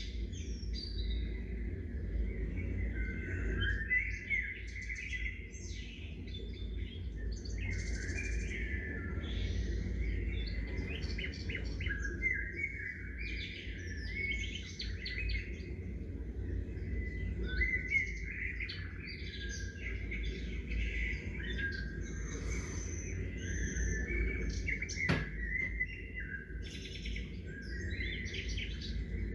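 Many small songbirds chirping and trilling, several at once, with short calls overlapping almost without pause over a steady low background rumble. A single brief click sounds near the end.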